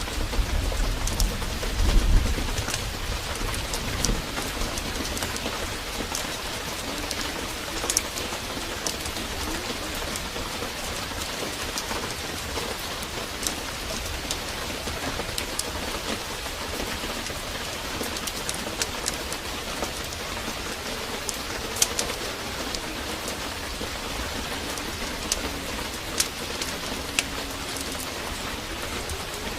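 Heavy rain pouring steadily, with scattered sharp crackles and ticks over it. A low rumble of thunder dies away in the first few seconds.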